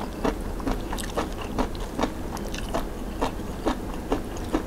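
Close-up chewing of a mouthful of wakame seaweed salad, crisp crunching strokes about two to three times a second.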